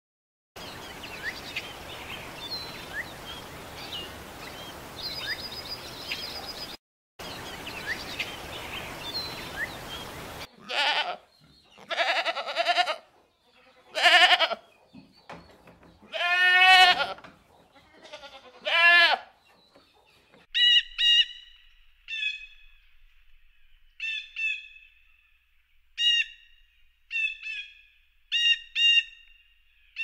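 Animal sounds in three parts: a steady hiss with faint high chirps, then about five loud, drawn-out calls with a wavering pitch, then short sharp calls repeated roughly once a second.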